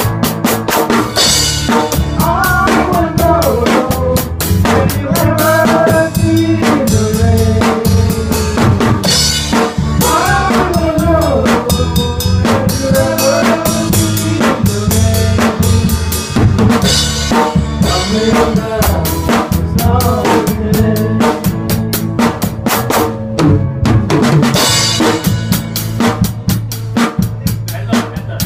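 A live band playing: a drum kit keeps a steady beat with kick, snare and rimshots over a bass line, with a bending melodic line on top.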